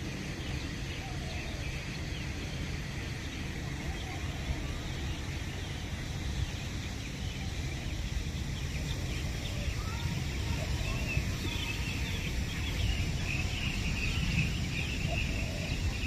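Many small birds chirping over a steady low outdoor rumble, the chirping busier in the second half.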